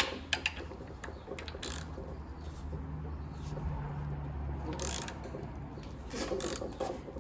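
A wrench on the crankshaft bolt of a 1.6 HDi/TDCi diesel, clicking and knocking as the engine is turned over by hand to line up the timing marks. There are a few sharp metallic clicks, the loudest right at the start, over a low steady hum.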